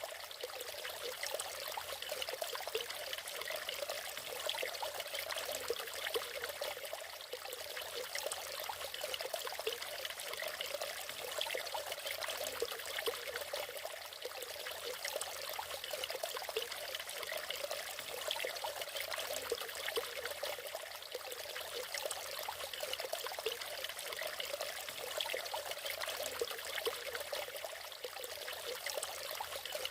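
Natural waterfall: water falling and splashing in a steady trickling rush, with many small splashes and no let-up.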